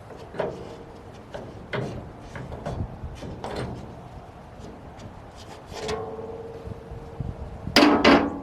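Metal clanks and knocks as the blade guide on a circle sawmill is worked loose and moved off the blade, one about six seconds in ringing on briefly, then two loud ringing metal strikes near the end.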